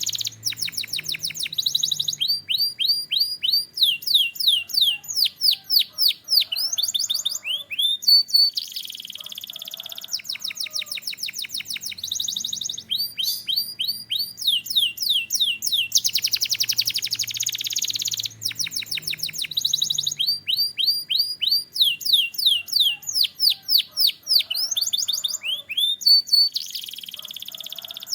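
Canary singing a long song of rapid rolling trills, built from fast down-slurred whistled notes, with a switch to a new tour every second or two. The same run of phrases comes round again about every twelve seconds.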